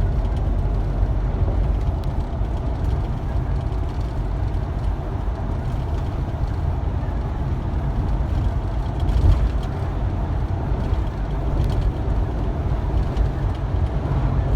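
Truck driving along, its engine and road noise making a steady low rumble.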